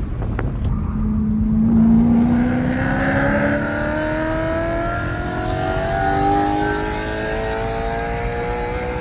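Mercedes C63 AMG's 6.2-litre V8, with its secondary catalytic converters and resonators deleted, accelerating hard. The engine note picks up again about a second in, then climbs steadily in pitch through the rest.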